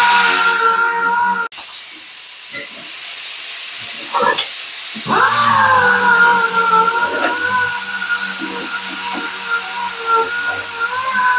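A shop power tool spinning up with a rising whine and a hiss. It cuts off sharply about a second and a half in, then spins up again about five seconds in and runs on steadily.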